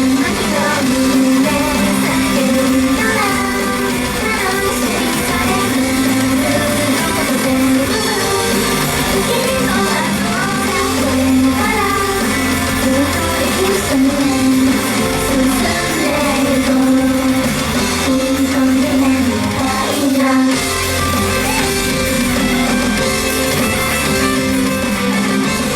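An idol group's song performed live: voices singing over loud, continuous pop-rock backing music with guitar.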